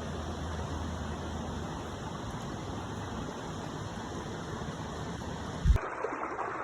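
Steady rushing noise of flowing water with a low rumble. Near the end comes a single loud thump, after which the sound turns to lighter trickling water.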